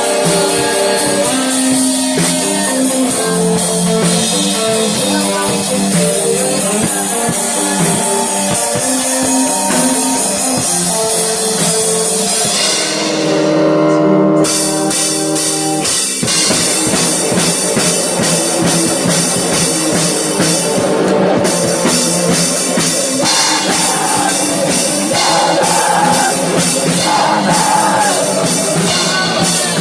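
A rock band playing live, with drum kit and guitars. About thirteen seconds in the band holds a chord, and around sixteen seconds the full band comes back in.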